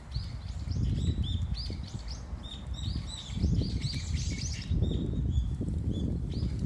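Small birds chirping, a quick run of many short overlapping calls, over a low, uneven rumble.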